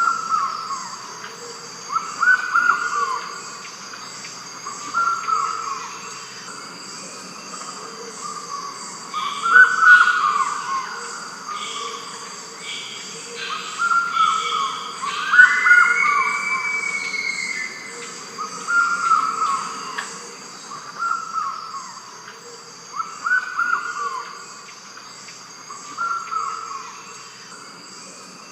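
Lilac kingfisher (lilac-cheeked kingfisher) calling over and over. Each call is a short run of loud notes that fall away, repeated every two to three seconds, over a steady high drone of insects.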